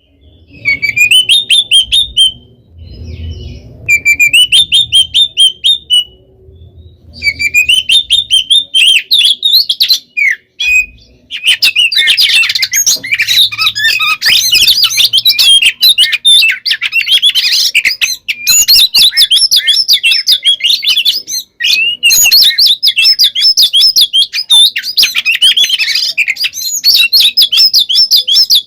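Oriental magpie-robin (kacer) singing loudly in aggressive fighting song, with fast, varied whistles and chattering notes. It sings in short phrases with pauses at first, then without a break from about twelve seconds in.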